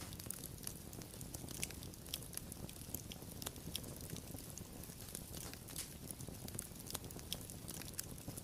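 Wood fire crackling, with frequent small irregular pops and snaps over a steady low rumble.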